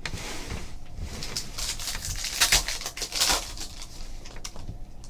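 Rustling and crackling of a basketball card pack's wrapper and its cards being handled, with the loudest crackles a little past halfway.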